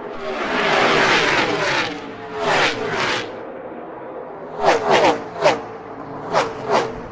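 Gen 6 NASCAR V8 stock cars racing past at speed, the engine pitch dropping sharply as each goes by. A tight bunch passes in the first two seconds, then about five cars whizz by one after another in the second half.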